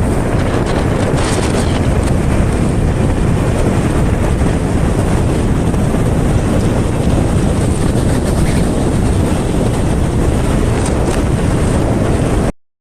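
Wind rushing hard over the microphone of a moving vehicle, with steady road and engine noise underneath. It cuts off abruptly near the end.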